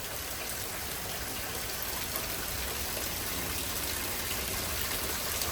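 Heavy thunderstorm rain pouring down in a steady downpour, growing slightly louder toward the end.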